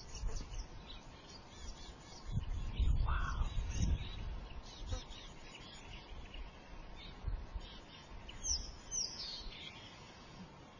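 Birds chirping, with a couple of quick falling calls near the end, over an uneven low rumble that swells about three seconds in.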